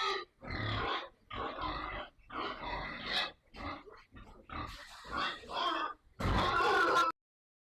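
Pigs grunting in a run of short calls, about eight in a row, which stop suddenly near the end.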